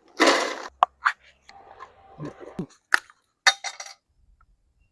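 A short rushing noise, then a few sharp metallic clinks and taps of cookware: a utensil or lid knocking against a pot.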